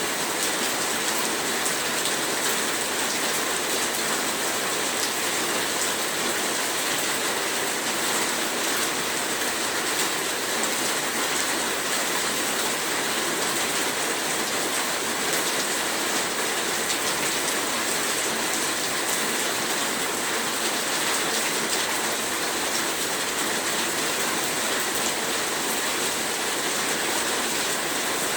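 Heavy rain falling steadily, a dense even hiss of rain on surfaces with fine drop patter.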